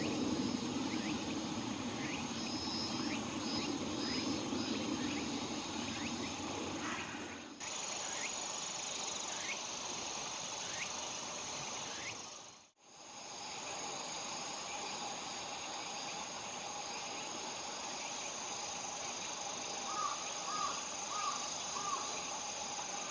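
Insects chirring steadily at several high pitches, with a run of short falling chirps about once a second in the first half and four short calls near the end. A low rumble under the first third stops abruptly.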